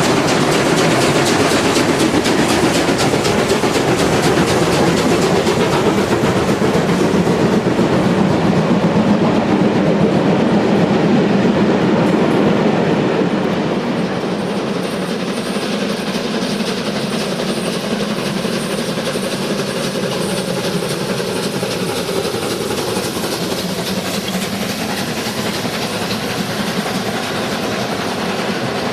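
A train running by on the track, louder for about the first thirteen seconds and then settling a little quieter.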